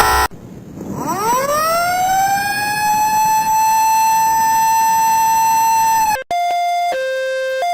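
A short loud blast, then a siren winds up from a low growl to a steady high wail over about two seconds, holds, and cuts off abruptly. A two-tone emergency siren follows, switching between a high and a low note about every two-thirds of a second.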